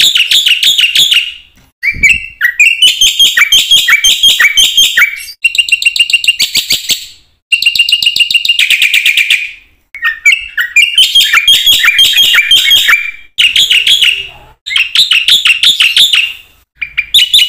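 Black-winged myna (jalak putih) singing loudly in rapid strings of repeated chirping notes, phrase after phrase, with brief pauses between them.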